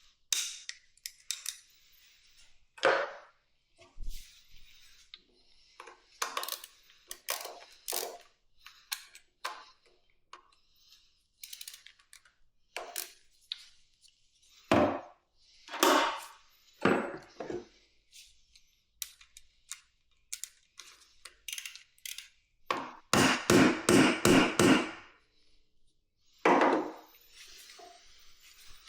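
Hand tools and metal parts clanking, clicking and knocking at irregular intervals while a motorcycle is being taken apart. About two-thirds of the way through comes a quick run of about seven hard knocks, the loudest sounds here.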